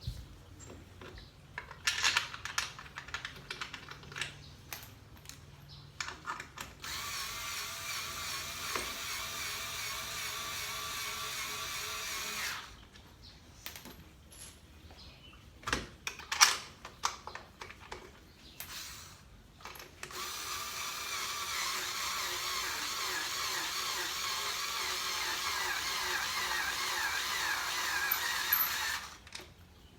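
Handheld electric drill running in two long stretches, about five seconds and then about nine seconds, with a steady whine. Clicks and knocks of tool handling fall between the runs.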